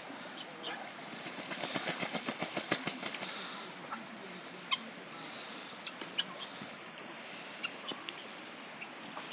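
Poultry flapping their wings in a rapid flurry of strokes lasting about two seconds, starting about a second in. It is followed by a few faint scattered clicks.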